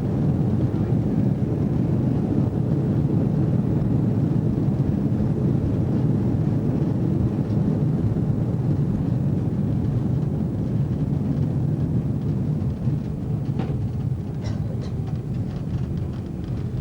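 Loud, steady rumble of engine and airframe noise heard inside an airliner cabin on landing, easing off in the last few seconds, with a few light rattles near the end.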